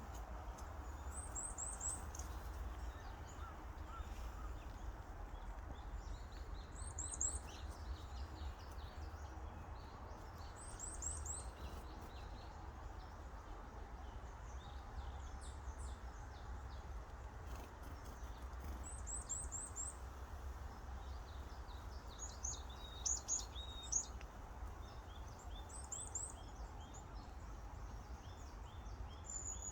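Wild songbirds singing in spring woodland, with short phrases of three or four quick, very high chirps repeated every few seconds among other scattered chirps. A steady low rumble runs underneath.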